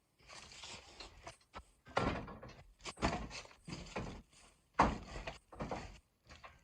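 Several dull knocks and thumps at irregular intervals, the loudest about two, three and five seconds in.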